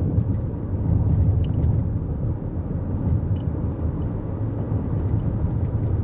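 Steady road and tyre rumble of a 2024 Toyota Corolla Cross driving on a highway, heard from inside the cabin.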